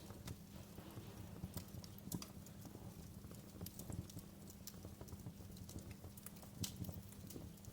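Wood fire crackling in a fireplace: irregular sharp pops and snaps over a low, steady rumble of burning, with a couple of louder pops about two seconds in and again near the end.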